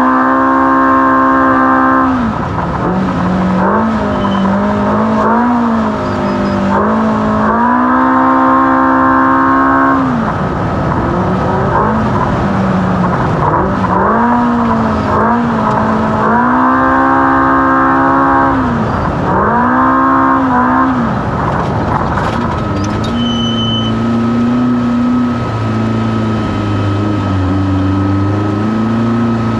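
Off-road race car engine revving hard in repeated pulls: the pitch climbs and holds high under full throttle, then drops back between them. For the last several seconds it runs at lower, steadier revs.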